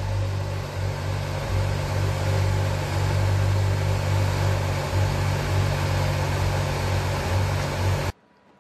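Supercar engine idling with a deep, steady rumble that holds one pitch, then stops suddenly near the end.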